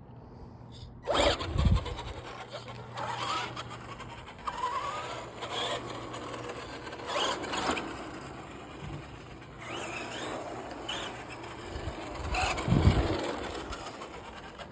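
ECX two-wheel-drive brushed RC stadium truck driving in short bursts: the electric motor whines up several times, with a couple of loud knocks about a second and a half in and near the end.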